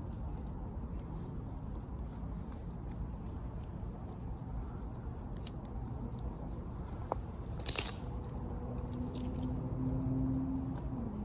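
Dry wood crackling and snapping, scattered sharp cracks over a steady low rumble, with one louder crack about three-quarters of the way through.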